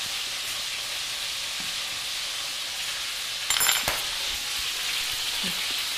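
Boneless chicken thighs frying in oil in a pan, a steady sizzling hiss as they brown. About three and a half seconds in there is a brief clink.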